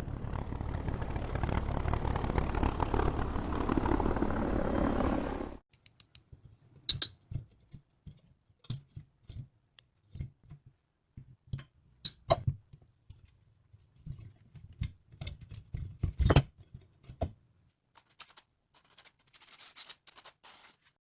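Workshop sounds from restoring rusty metal parts. A steady, rough, noisy sound from a tool or process runs for about five seconds and then cuts off abruptly. It is followed by scattered clinks and knocks of metal parts being handled, with one louder knock and a short hissing burst near the end.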